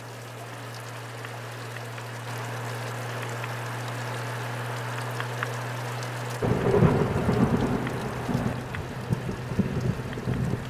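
Rain and wind hiss over a steady low motorcycle engine drone while riding in the rain. About six seconds in, a sudden loud rumbling buffet of wind and spray hits the microphone and goes on unevenly.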